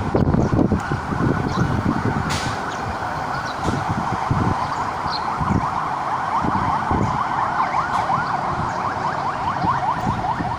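Siren in a fast yelp, quick rising sweeps repeated several times a second, over the low rumble of passing road traffic.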